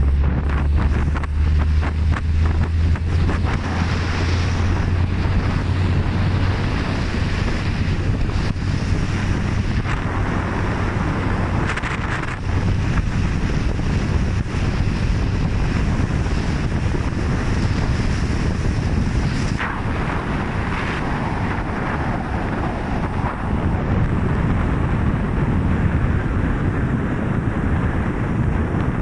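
Wind buffeting the microphone on a moving motorcycle, over a steady low engine drone and road noise. The drone is strongest in the first several seconds.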